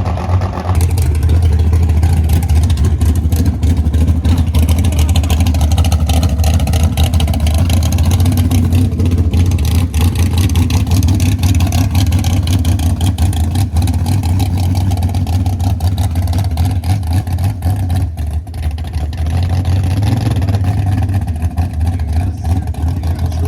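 Car engines running loud and steady with a deep low drone and crackly exhaust noise, rising and falling a little but never stopping.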